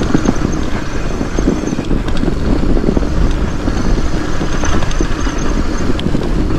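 Norco Bigfoot fat bike rolling down a packed snowy trail: a steady rumble of the wide tyres over the snow and the bike rattling.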